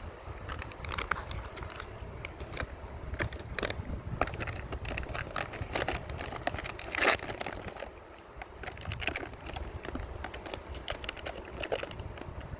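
River water lapping and splashing close by in irregular small splashes and trickles, one louder splash about seven seconds in, over a low rumble of wind on the microphone.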